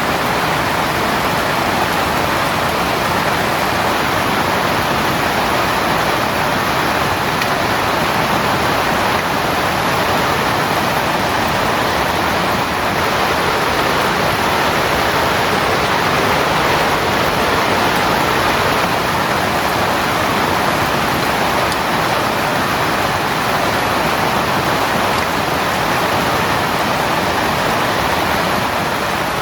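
Heavy rain falling steadily on a tent, an even, unbroken hiss.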